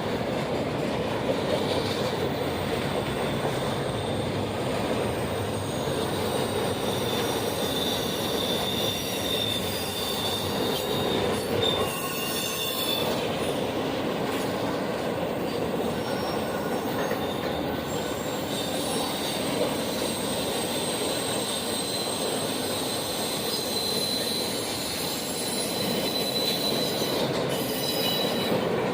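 Railroad cars rolling past with a steady rumble, their wheels squealing against the rails in thin high tones that come and go. There is a sharper burst of squealing about twelve seconds in.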